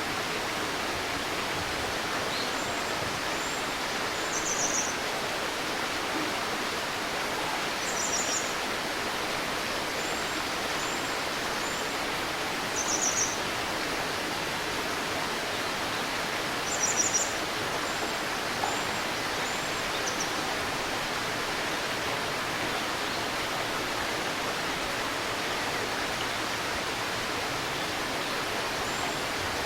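Shallow river or stream babbling steadily, with birds singing over it: short high chirps and thin falling whistles every few seconds, the loudest burst a little past the middle.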